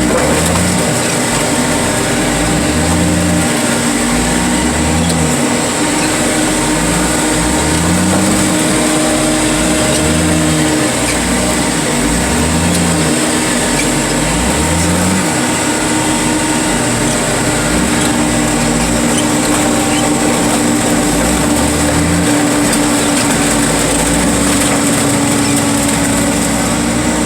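Car crusher's engine and hydraulic power unit running steadily, with a low pulsing that rises and falls about once a second under a constant hum.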